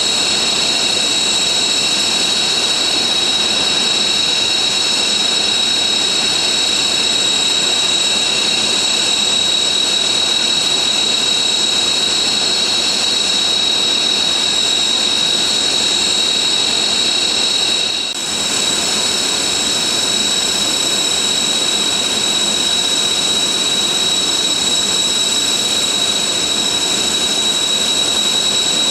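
Military jet engines running at ground idle for taxiing: a steady, high-pitched whine over a continuous rush. It dips briefly about two-thirds of the way through, then carries on unchanged.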